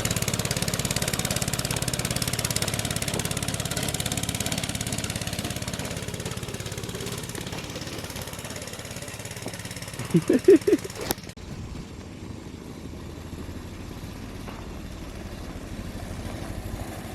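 Minibike's small engine running steadily, growing gradually quieter over the first ten seconds as the bike moves off. About ten seconds in there are a few short loud pitched calls, then a sharp click, after which the engine drone carries on more faintly.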